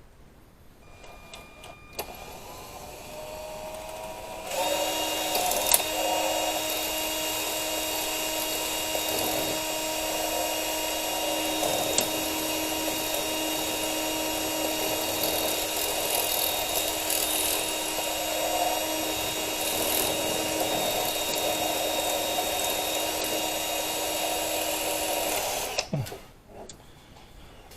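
Electric drill spinning up gently, then running at a steady speed for about twenty seconds before stopping abruptly, drilling into a broken water pump bolt.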